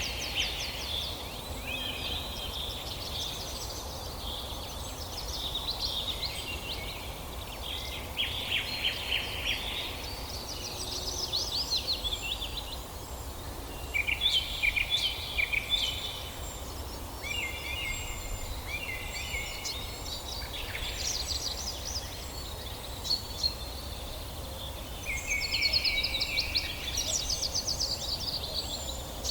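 Several songbirds singing in overlapping phrases of rapid trills and chirps, one after another, over a steady low background rumble.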